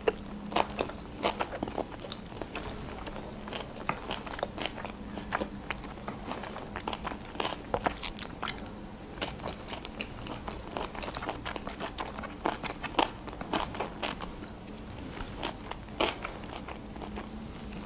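A person chewing sushi rolls close to the microphone, with many short sharp crunches and mouth clicks spread through.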